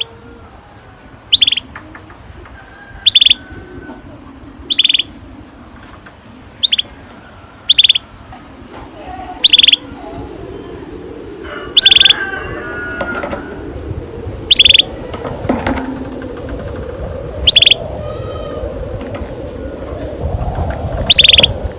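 Domestic canary giving short, loud chirp calls over and over, one about every two seconds, with fainter twittering and background noise beneath.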